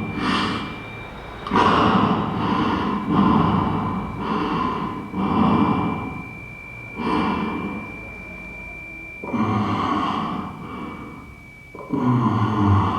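A person breathing heavily: loud, drawn breaths in and out, one every second or two. A faint steady high whine runs underneath.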